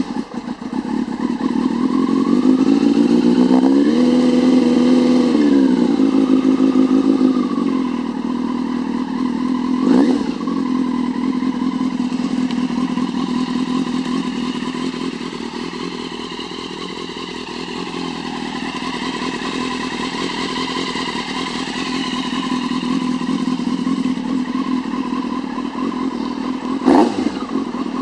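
1999 Yamaha FZS600 Fazer's 600 cc inline-four engine breathing through a Carbon Force carbon silencer, running just after starting: the revs rise and hold for a couple of seconds a few seconds in, then it idles, with a quick throttle blip about ten seconds in and another near the end.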